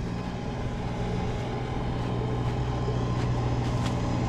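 Engine of a snow-removal machine running steadily, a low hum that grows slightly louder.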